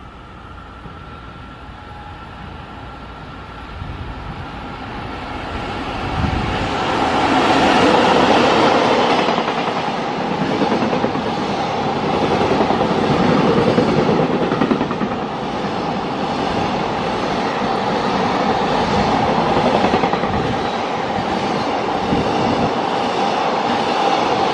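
JR Freight container train passing through the station at speed without stopping. Its noise builds over the first six or seven seconds as it comes in, then the long string of container wagons rolls past with a loud, steady noise of wheels on rails.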